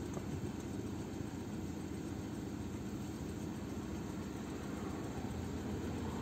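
Car engine idling with a steady low hum, heard from inside the cabin while stopped in traffic.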